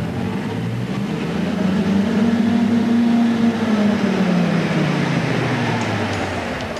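SISU SRH 450 Mammoth mining truck's engine running under load, its pitch climbing over the first two or three seconds and then sinking again.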